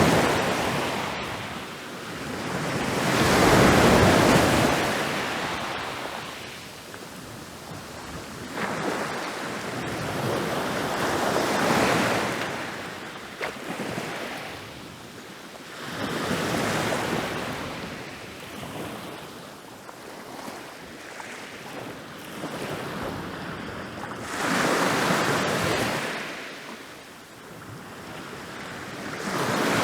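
Ocean waves rolling in and crashing on a beach: a rushing surf that swells up loud and dies away again, about five waves in turn, one every four to eight seconds.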